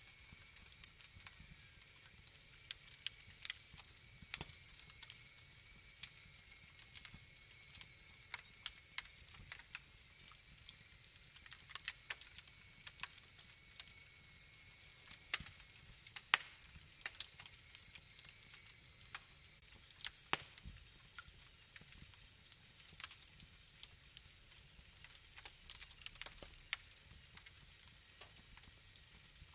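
Wood fire crackling, with irregular sharp pops and snaps, a few much louder than the rest. A faint thin high whistle runs under it and fades out a little past halfway.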